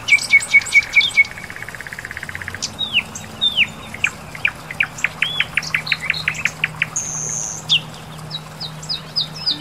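Several songbirds singing: repeated sharp chirps, a fast trill about a second in, then a run of quick down-slurred notes.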